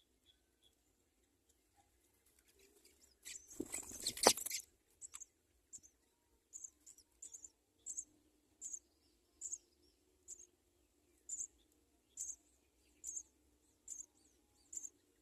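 A brief scuffle of rustling and fluttering with a sharp knock about three seconds in. After it, short high cheeps repeat at an even pace, a little more than one a second, typical of house sparrows at a nest with young.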